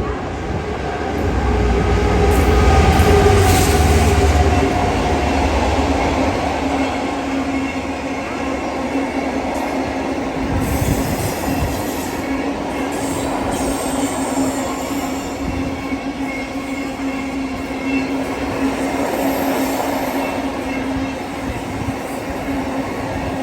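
A Class 66 diesel locomotive, with its two-stroke V12 engine, passes hauling a metals train. Its heavy low engine rumble is loudest about one to five seconds in, then the loaded wagons roll by with a steady tone running through their noise.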